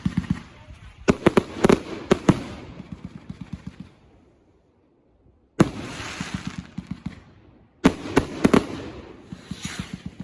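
Consumer fireworks going off: a cluster of sharp bangs followed by a fast crackling trail, a short near-silent gap, then two more clusters of bangs with hissing and crackle.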